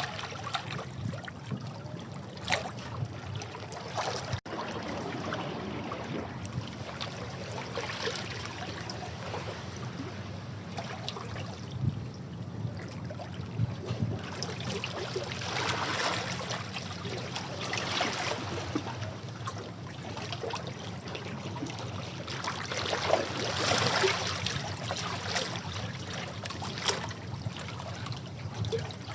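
Sea waves washing over and against rocks, a continuous rushing wash that swells louder several times, most strongly near the end. There is a momentary cut-out in the sound about four seconds in.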